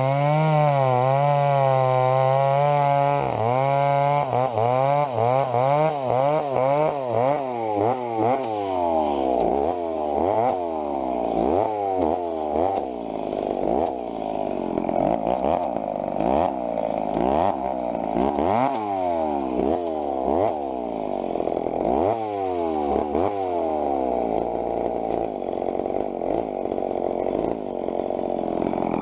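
Two-stroke chainsaw running at high revs. Its pitch wavers for the first few seconds, then it revs up and down over and over, about once a second.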